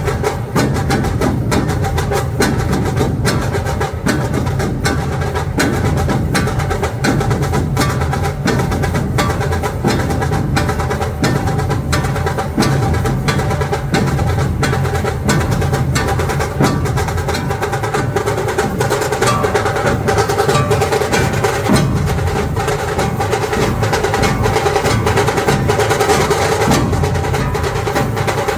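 A dhol troupe drumming together in a fast, dense, unbroken rhythm.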